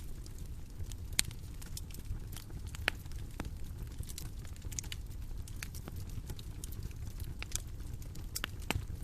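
Bonfire crackling: a steady low rumble of burning wood with irregular sharp pops and snaps scattered throughout.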